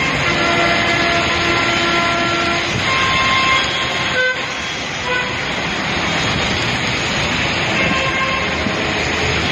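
Heavy rain falling with road traffic, and vehicle horns honking briefly several times.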